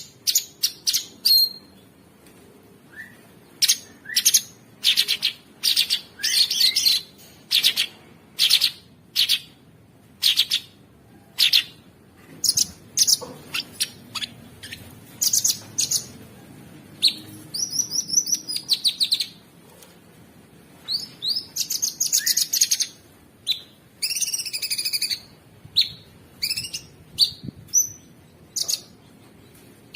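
Cucak sungkok singing a rough, busy song in rapid short phrases, one after another with only brief pauses. The chattering, sometimes trilled notes are high-pitched.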